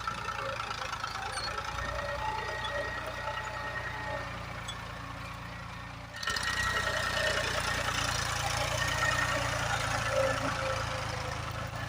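Tractor engine running steadily as it ploughs a field, a constant low drone that grows louder about six seconds in.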